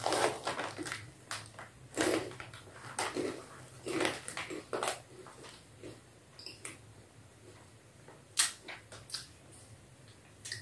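Close chewing of a crunchy, salty masala-flavoured Indian packaged snack: irregular crunches, frequent at first and thinning out toward the end.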